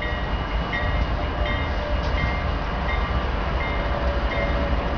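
A train's heavy, steady rumble, with a bell striking at an even pace about every three-quarters of a second.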